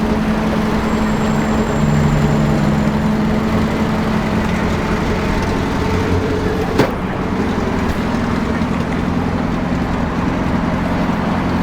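A motor vehicle's engine running steadily, a constant droning hum, with one sharp click about seven seconds in.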